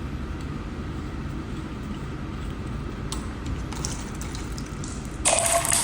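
Water from the opened urinal flushometer handle connection splashing into a catch cup or rag in a short burst of about a second near the end, after a few light clicks and rustles, over a steady low rumble.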